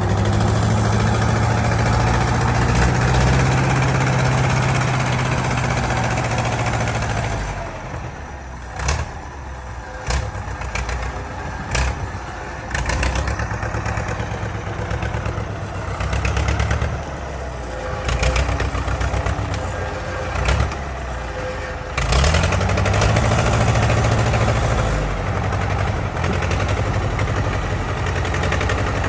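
An engine running hard, then dropping to a lower, uneven running about seven seconds in, with several sharp knocks, before revving up again and running hard just after twenty seconds in.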